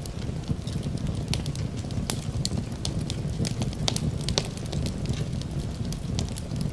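Wood fire crackling, with many irregular sharp pops over a steady low rumble, mixed with rain.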